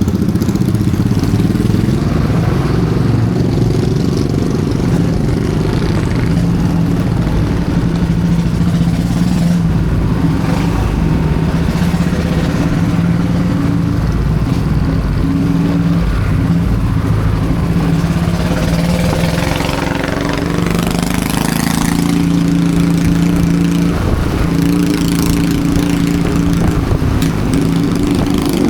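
Motorcycle engine running steadily while riding, with road and wind noise; the engine note drops briefly about two-thirds of the way through, then picks up again.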